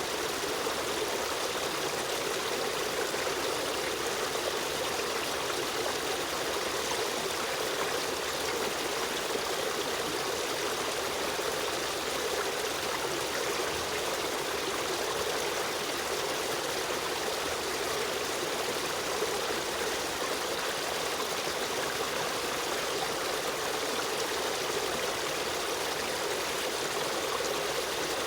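Shallow stream of running water flowing and trickling steadily, an even rushing with no breaks or changes.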